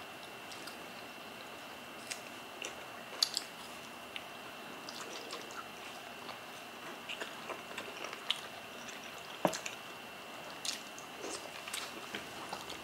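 Close-up eating sounds: soft wet chewing, lip-smacking and scattered small clicks as two people eat steamed red snapper with their fingers, over a steady hiss with a faint high tone. A couple of sharper mouth clicks stand out, one about three seconds in and one past nine.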